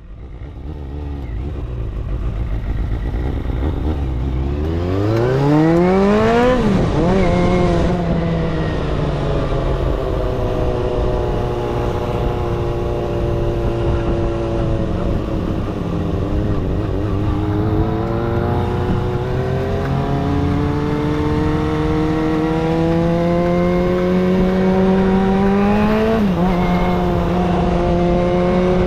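Kawasaki ZXR250 inline-four engine under way, revving up quickly about five seconds in and then dropping sharply on a gear change. It holds fairly steady, then climbs slowly through the second half before another sharp drop on a gear change near the end.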